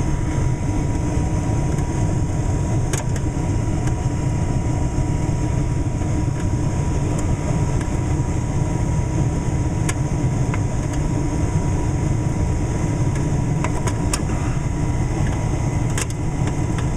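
Gas furnace running steadily, burner lit and blower going, with a constant hum and a few faint ticks. The flame stays lit with the new flame sensor fitted, so the short-cycling fault is cured.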